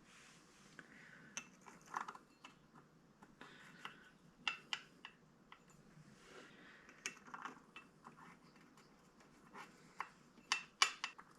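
Scattered light metallic clinks and taps of hand tools and small metal parts being handled, with a cluster of sharper clicks near the end.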